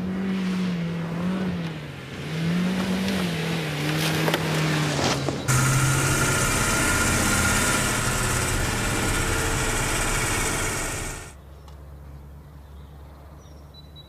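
A car engine revving up and down as it is driven hard, then a loud rushing noise for about six seconds, falling to a low rumble near the end.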